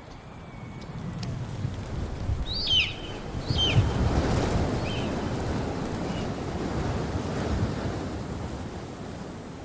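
Rushing surf-like noise that swells up over the first few seconds and slowly dies away, with a few short chirping calls, like birds, between about two and five seconds in.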